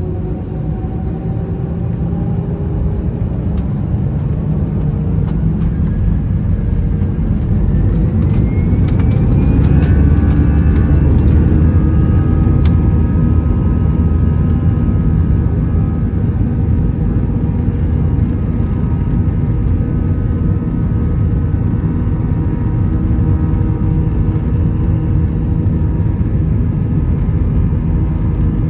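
Airbus A320-211's twin CFM56-5A turbofans spooling up to takeoff thrust, heard from inside the cabin: a rising whine climbs for about ten seconds as the sound grows louder, then holds steady over a heavy low rumble at takeoff power.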